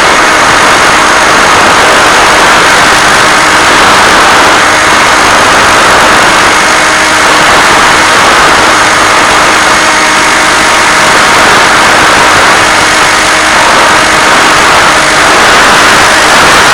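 Loud, steady hiss with a few faint steady tones through it, the audio channel of an analog 1.3 GHz FPV video link picked up at the ground station.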